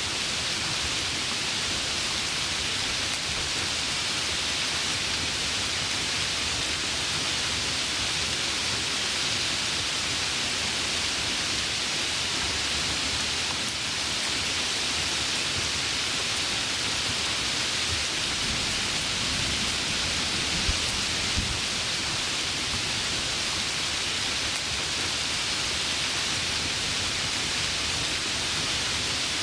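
Heavy rain falling steadily, a dense even hiss, with two brief louder spikes a little past two-thirds through.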